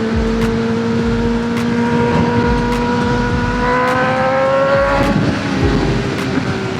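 Motorcycle engine pulling steadily under acceleration, its pitch slowly rising, then dropping suddenly about five seconds in at a gear change before climbing again near the end, with wind rumbling on the microphone.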